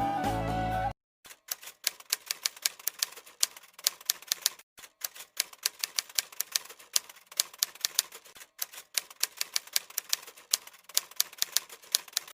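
Music cuts off about a second in, then typewriter keys clack in a rapid, irregular run, several strikes a second with brief pauses.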